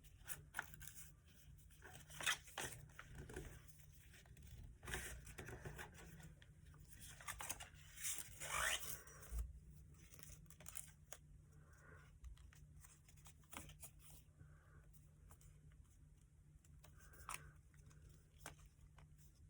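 A sheet of paper being folded and creased by hand: scattered short rustles and scrapes, a little louder around 2, 5 and 8 to 9 seconds in.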